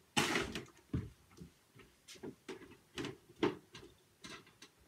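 Handling noise: a short rustle at the start, then a string of irregular clicks and knocks, as objects are picked up and moved about.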